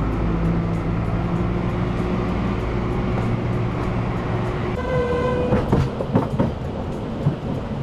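Šargan 8 heritage narrow-gauge train rumbling steadily, then a short toot from the locomotive a little under five seconds in, followed by a few sharp clanks from the carriages as the train sets off.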